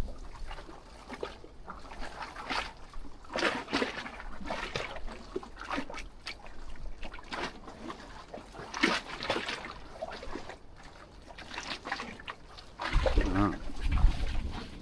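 Water slapping and gurgling against the pilings under a wooden jetty in irregular splashes, which make it very noisy under the wharf. Near the end a louder, low sound with a wavering pitch joins in.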